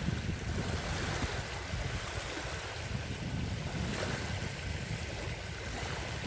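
Wind buffeting the microphone in a steady low rumble, over the even wash of small wind-driven waves on a lake.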